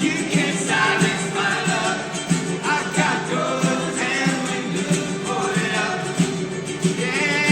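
Live rock band playing with a sung vocal line over a steady beat.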